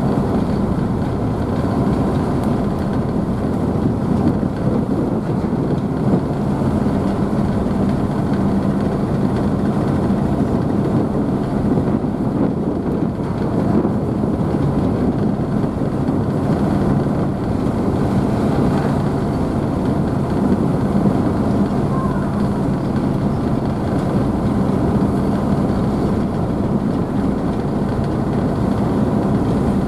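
Car ferry's engines running steadily, a low drone under the rushing of churned water and spray from the wake.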